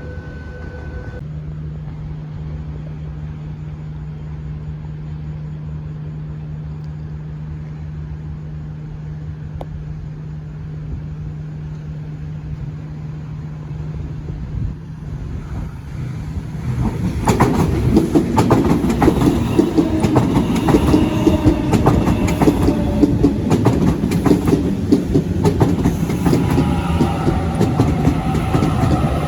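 Electric passenger train at a station platform. A steady low hum comes first; about 17 seconds in a train comes through loudly, its wheels clattering over the rail joints, and a motor whine rises near the end.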